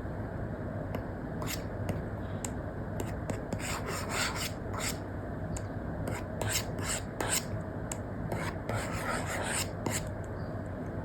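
Apple Pencil Pro tip scratching across an iPad fitted with a paper-like matte screen film, in runs of quick short sketching strokes, over a steady low hiss.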